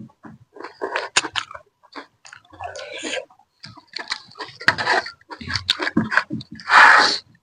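Close-up mukbang eating sounds: noodles and thukpa soup being chewed and slurped, with irregular wet clicks and a louder slurp near the end.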